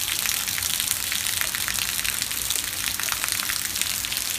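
Steady rain falling, a dense hiss of drops pattering on the ground.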